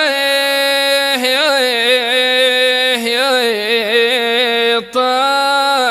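One voice singing a wanna, the Arabian sung lament, drawing out long held notes with wavering melismatic ornaments and taking a brief breath about five seconds in.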